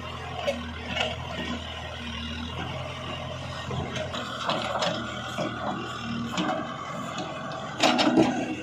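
Diesel engine of a backhoe loader running steadily while loading, with scattered knocks and scraping of the bucket and a louder clatter of knocks near the end.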